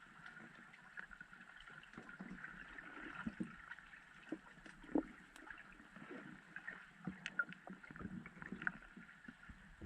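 Faint water sounds: a soft wash of noise scattered with small, irregular clicks and knocks.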